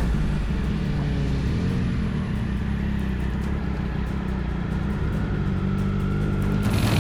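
A road vehicle's engine running at a fairly steady speed, with road and wind noise over it; near the end the noise grows louder and brighter.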